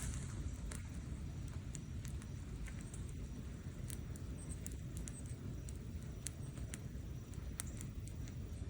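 Medium-large wood campfire burning: a steady low rumble of flame, with scattered sharp crackles and pops about once or twice a second.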